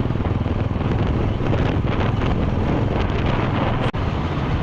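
Wind buffeting an action camera's microphone on a moving motorcycle, over the low drone of the engine. The sound drops out for an instant near the end.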